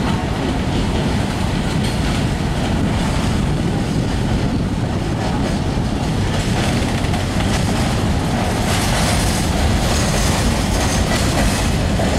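Freight train of covered hopper cars rolling past close by, a steady rumble of steel wheels running on the rails, growing hissier about two-thirds of the way through.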